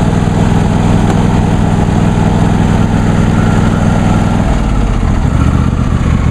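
John Deere D130 lawn tractor engine running steadily with the blades off; about four and a half seconds in, its speed drops to a lower, slower note.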